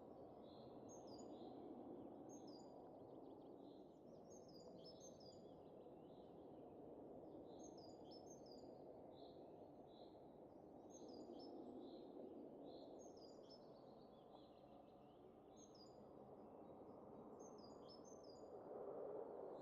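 Faint steady wind that swells and eases, under small birds chirping in quick, repeated short calls.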